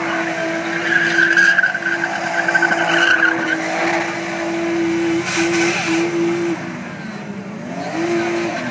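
Skid car doing a burnout, its engine held at high, steady revs with a few brief stutters. The tyres squeal from about a second in until about three and a half seconds in. Near the end the revs drop and climb back up.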